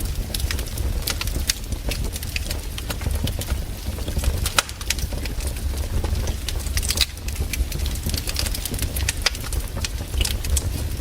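Wood campfire crackling, with many irregular sharp snaps and pops over a low steady rumble.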